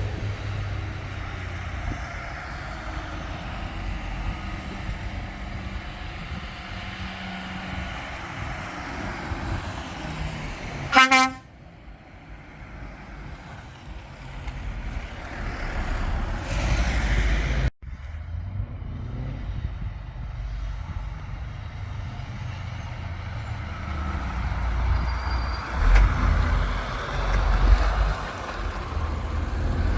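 Heavy truck diesel engines running as lorries pass by, with one short, loud truck horn blast about a third of the way in.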